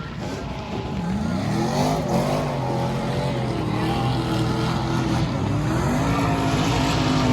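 NASCAR race trucks' V8 engines running on the track, rising in pitch about a second in as they accelerate, then holding a steady note that grows slowly louder.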